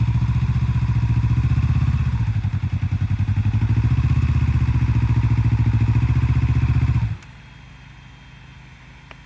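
Motorcycle engine running at low revs with a steady pulse, then dying suddenly about seven seconds in: the engine stalls as the clutch is let out.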